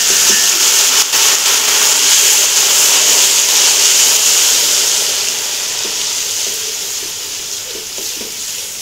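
Garlic and ginger paste sizzling loudly as it fries in hot oil with browned onions in a steel pot, stirred with a metal spoon. The sizzle slowly dies down over the last few seconds as the paste cooks.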